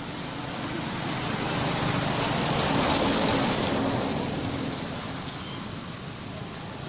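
A motor vehicle passing by, its engine and tyre noise growing louder to a peak a few seconds in and then fading away.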